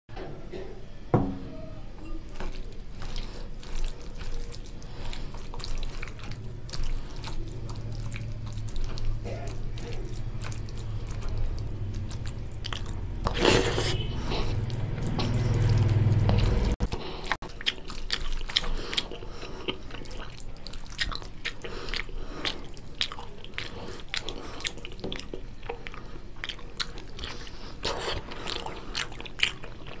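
Close-miked eating: wet chewing, smacking and squishing as oily mutton fat curry and goat trotter (paya) curry with rice are eaten, in many small sharp clicks. A low hum builds in the middle and cuts off suddenly a little past halfway.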